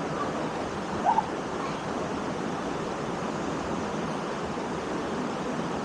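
Waterfall: a steady rush of falling water. A brief short sound rises above it about a second in.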